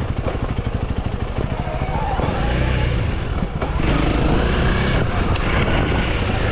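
Honda CRF300L single-cylinder four-stroke dirt bike engine running at low revs with rapid, even firing pulses, getting louder about two and a half seconds in as the bike is ridden slowly over slippery clay.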